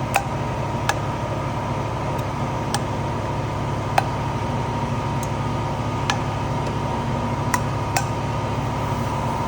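A steady mechanical hum, with sharp single clicks every second or two.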